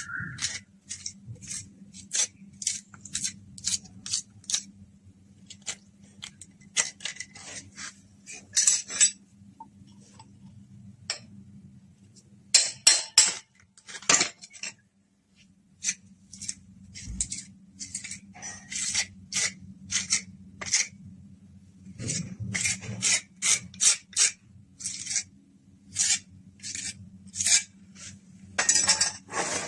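Plumbing hand work on pipes and fittings: many short, irregular scrapes and clinks of tools against hard pipe material, over a faint steady low hum.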